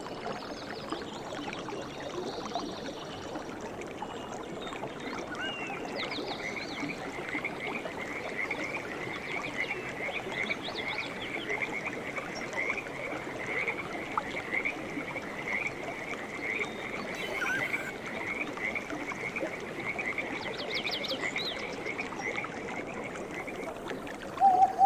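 A frog calling in a long, even series of short croaks, about two a second, over a soft natural background with a few brief higher chirps. Just before the end a loud steady tone starts.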